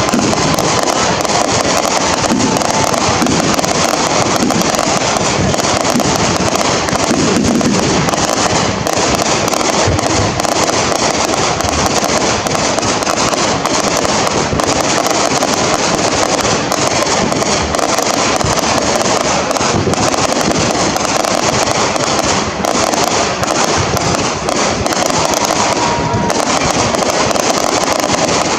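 Fireworks display going off in a dense, unbroken barrage of bangs and crackles.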